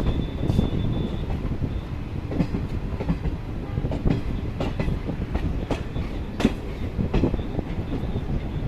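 Passenger train running, heard from on board: a steady low rumble with irregular clicks and knocks of the wheels over rail joints and points.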